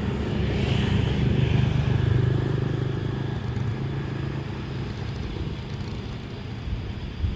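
A passing train's low engine rumble, loudest a second or two in and then slowly fading away. There is a short thump at the very end.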